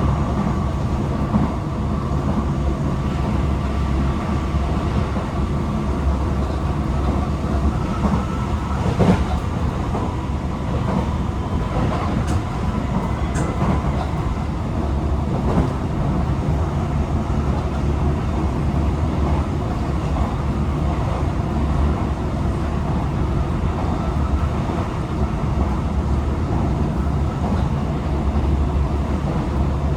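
Tokyo Metro 18000-series electric train heard from inside the car while running: a steady rumble of wheels on the rails. A faint steady tone fades out about eight seconds in, and there is one sharp click about nine seconds in.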